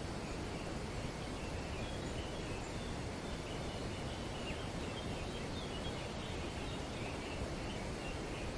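Wind in trees, a steady rustling hiss, with faint, high bird chatter from about a second and a half in until near the end.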